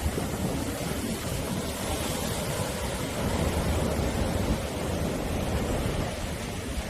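Sea waves breaking and washing on the shore: a steady surf with a deep rumble, swelling slightly in the middle.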